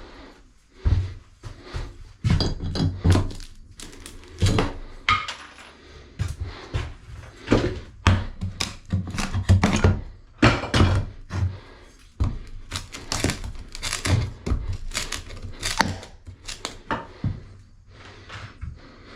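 Irregular knocks, thuds and clatter of household objects being handled, moved and set down, often several a second, thinning out near the end.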